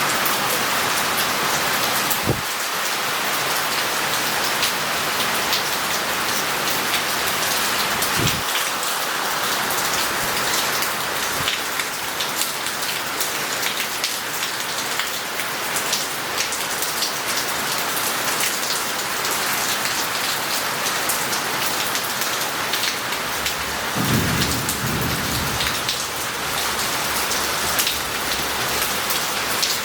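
Heavy rain pouring onto a city street and roof tiles, a steady dense hiss of falling and running water. A low rumble of thunder comes in about three-quarters of the way through, and two brief sharp knocks sound in the first ten seconds.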